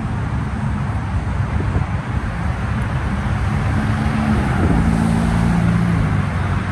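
Car engine running, a low steady engine note that grows stronger about halfway through, over general traffic noise.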